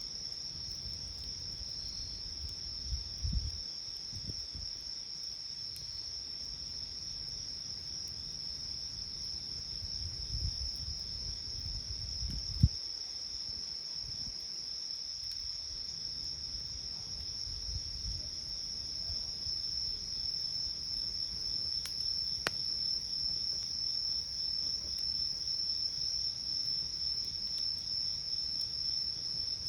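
Crickets and other night insects trilling steadily in one continuous high chirr, with a second, faster-pulsing insect call beneath it. A wood campfire adds a few scattered pops and crackles, one sharp crack about 22 seconds in.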